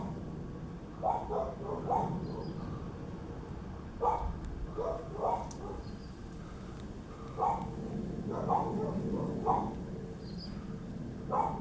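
A dog barking repeatedly in short runs of two or three barks, over a low steady rumble.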